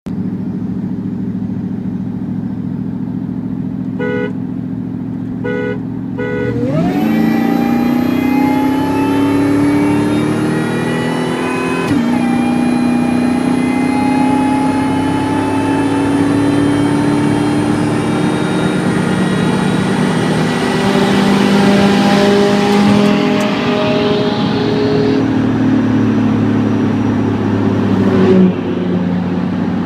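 A vehicle engine idling, then three short beeps, then the engine under hard acceleration from a start in a race. The pitch rises, drops suddenly at an upshift about 12 seconds in, and climbs slowly for a long pull before falling off near the end as the throttle is lifted.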